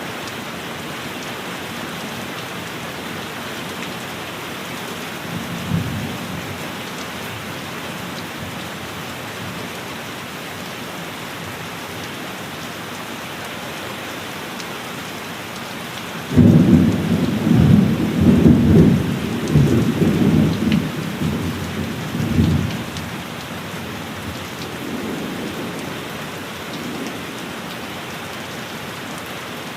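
Steady heavy rain with a brief low rumble of thunder about six seconds in. About sixteen seconds in a loud thunderclap breaks suddenly and rolls for around six seconds, then fades to a faint rumble.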